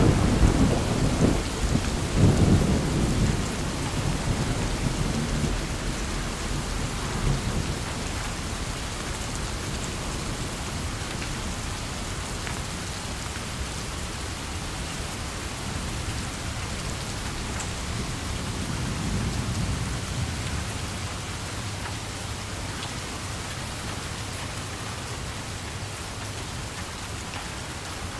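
Steady rain with thunder: a loud low rumble at the start and a second roll about two seconds in die away over several seconds, and a fainter rumble comes near two-thirds of the way through.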